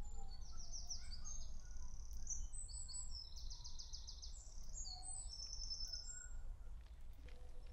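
Songbirds singing, with quick trills and repeated high phrases, over a steady low outdoor rumble; the song thins out near the end.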